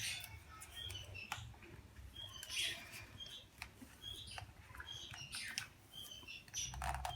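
Small birds chirping on and off in short calls, with scattered light clicks of handling.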